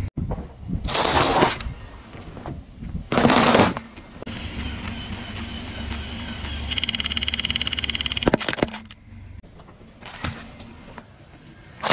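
Things crunching and cracking under a car's tyres, in two loud bursts near the start, followed by a steadier stretch with a fast ticking pattern and a few sharp cracks.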